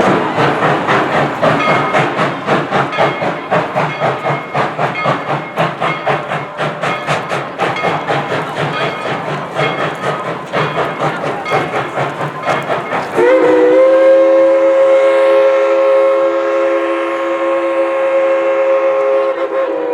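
Baldwin steam locomotive #190 working, with a steady rapid rhythm of exhaust beats, then about two-thirds of the way in its chime steam whistle sounds one long chord blast that holds to the end.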